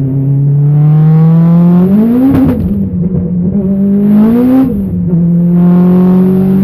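Car engine under hard acceleration through the gears: the revs climb, fall sharply at a gear change about two seconds in, climb again, fall at a second shift about four and a half seconds in, then climb once more.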